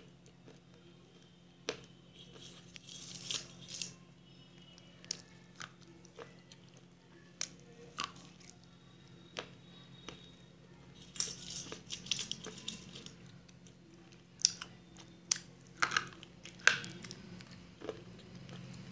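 A person biting and chewing brittle pale chunks: sharp crunches and crackles at irregular intervals, thicker and louder in the last few seconds, over a steady low hum.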